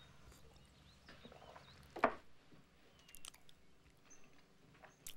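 Quiet chewing and eating at a table, with a few small clicks, the sharpest about two seconds in.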